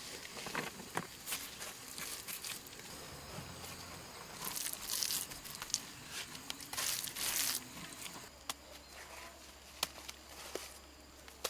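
Rustling and crinkling handling noises with scattered sharp clicks, and two longer rustles about four and a half and seven seconds in.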